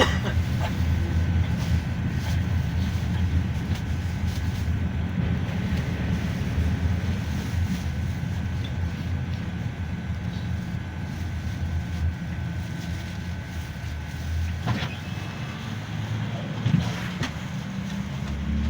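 Interior noise of a GAZelle Next minibus on the move: a steady low engine and road rumble, with a thin steady high tone that stops about three-quarters of the way through. A few short knocks come near the end.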